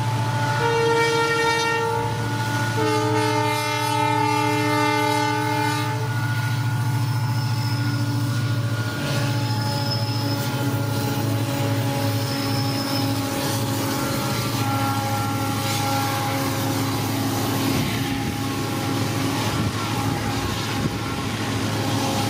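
Diesel locomotive sounding its horn twice, a short blast and then a longer one, over the steady running of its engine; from about nine seconds in, the train's wheels clatter over the rail joints as it passes.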